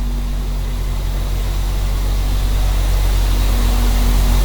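Car engine idling steadily with the AC off, an even low pulsing beat.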